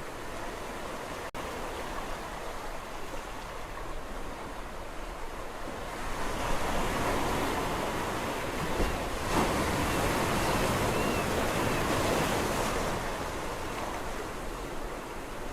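Sea surf washing on a shore: a steady rush of water that swells louder about six seconds in as a wave breaks, then eases off near the end. A momentary dropout in the sound about a second in.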